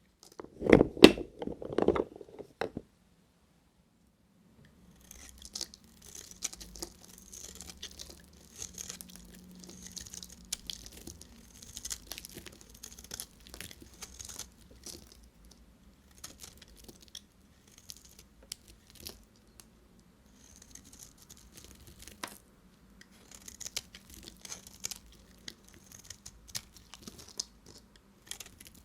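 Knife cutting dry bar soap: a few loud crunches in the first couple of seconds, then, after a short silent gap, a long run of fine crackling and scraping strokes as the blade shaves and cracks the soap.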